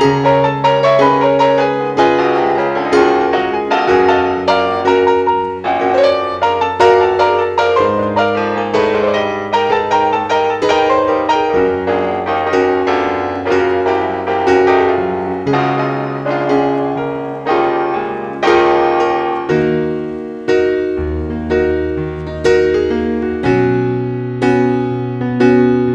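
Piano music: a steady flow of struck, fading notes over low bass notes held for several seconds each.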